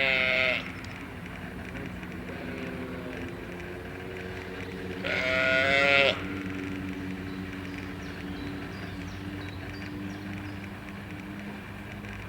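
Sheep bleating twice: a short quavering bleat at the very start and a longer, louder one about five seconds in, over a steady low hum.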